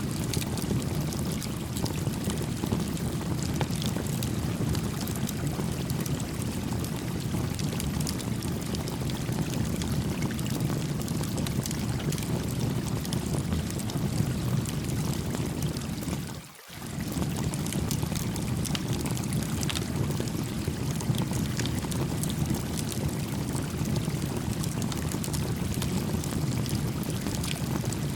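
Small campfire crackling with scattered sharp pops over a steady babbling stream. The whole sound briefly fades out and back in about two-thirds of the way through.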